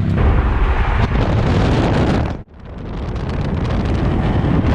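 Car on the move, heavy wind buffeting the microphone over a low engine and road rumble. About halfway through, the sound cuts out abruptly and then swells back up.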